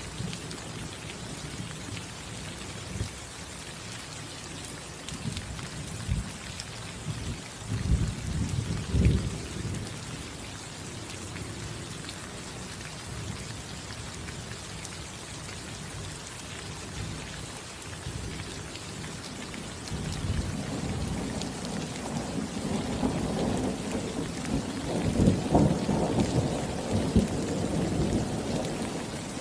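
Steady rain falling on a roof, with low rolls of thunder swelling about eight seconds in and again, longer and louder, from about two-thirds of the way through.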